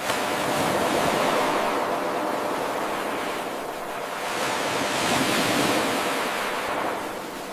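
Ocean waves washing in, a short recording looped: the surf swells, eases about halfway, swells again and fades near the end, with an abrupt jump in level right at the start where the loop restarts.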